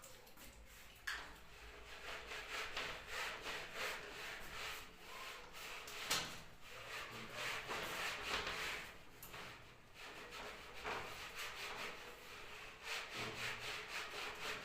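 Writing on a board: a long run of short, scratchy rubbing strokes, one after another, with small pauses between groups.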